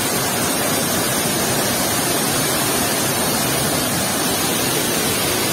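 Waterfall rushing close by: a steady, even roar of falling water with no breaks.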